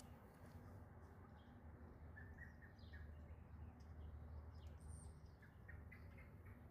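Near silence: faint outdoor background with a few short, high bird chirps, a small cluster about two seconds in and another run near the end.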